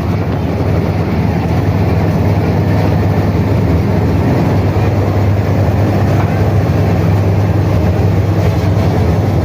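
High-speed passenger ferry's MAN diesel engines running hard at cruising speed: a steady low drone over the rushing of the propeller wash and wake.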